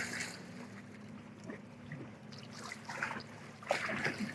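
Lake water lapping and trickling softly at the shoreline, with small splashes and a slightly louder splash near the end. A distant motorboat's engine hum fades out in the first moment.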